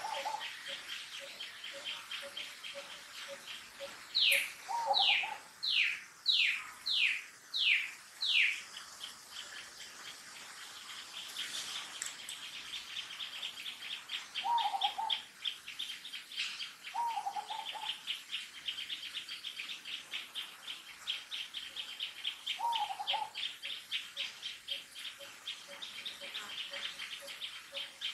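Birds calling: a series of about seven loud, quick, downward-sliding whistled notes, over a fast pulsing chirr, with a few short lower calls later on.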